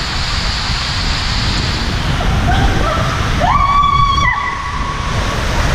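Water rushing under and around a raft tube sliding down a water-slide flume, with riders' voices and one long, high-pitched scream rising in about three and a half seconds in and held for over a second.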